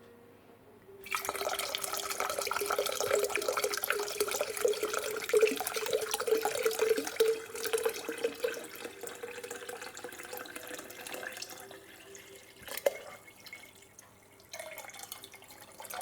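Water from a kitchen tap pouring into a jug, starting about a second in and easing off over the second half. A single knock comes near the end.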